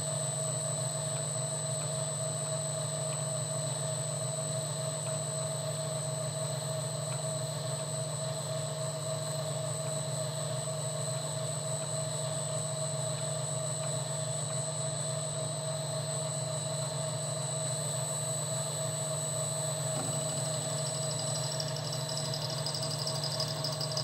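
Milling machine running steadily, its spindle and motor holding a constant hum and whine while the cutter is lowered slowly toward the cylinder head to touch off for zero. A higher hiss joins near the end.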